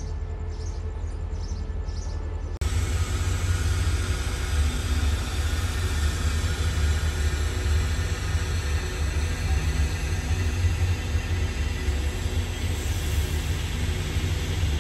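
A diesel train runs with a steady, deep rumble and a hiss above it. The sound jumps abruptly louder about two and a half seconds in, then holds steady.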